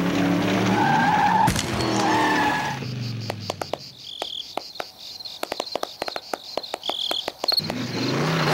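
A motor-like hum with gliding pitch that fades out, followed by a few seconds of scattered sharp clicks and two short high chirps, like insects; the motor-like sound comes back near the end.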